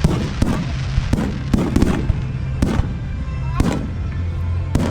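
Aerial fireworks going off in a fast barrage: about eight sharp bangs at uneven intervals, each with a short echoing tail.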